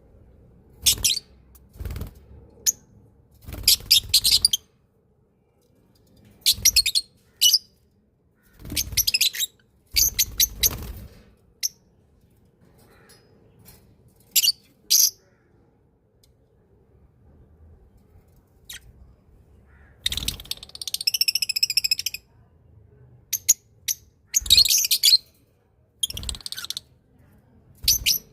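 Small birds chirping in short, separate bursts, with a longer warbling trill of about two seconds a little past the middle.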